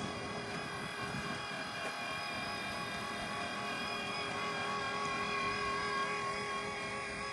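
Steady drone of running machinery at a constant speed, a hum with several whining tones held level throughout and swelling slightly in the middle.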